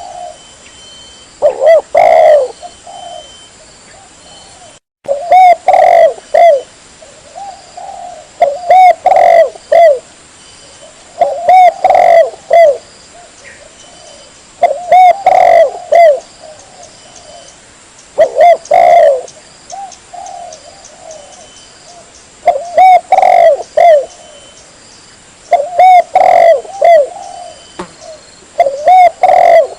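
Spotted dove (tekukur) cooing loudly, a phrase of a few short coos repeated about every three seconds.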